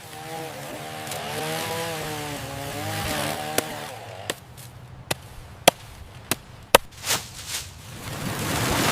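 A power tool motor running with a wavering pitch for about four seconds, then a handful of sharp knocks, then a steady hiss rising near the end.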